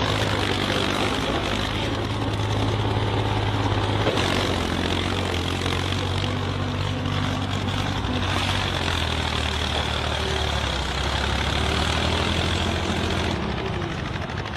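A vehicle engine running steadily, its pitch settling slightly lower about eight seconds in.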